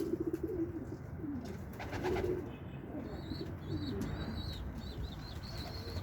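Domestic pigeons cooing, repeated low wavering coos, with thin high-pitched chirps joining in from about halfway.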